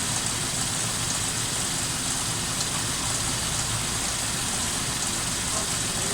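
Suzuki Grand Vitara's 2.5-litre V6 idling steadily under a constant hiss, with no miss audible. The misfire appears to have been an intermittent loose connection.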